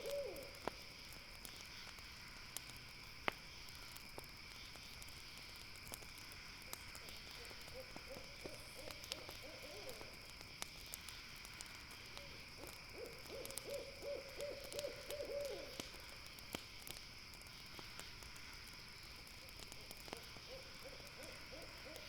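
An owl's trilled hoot, a quick run of low notes lasting two to three seconds, comes three times. It sounds over a steady chirring of night insects and the scattered crackle of a campfire.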